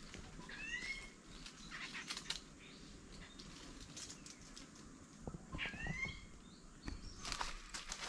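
A bird calling twice, each a short rising call, one about half a second in and one near the middle, over scattered footsteps and rustling.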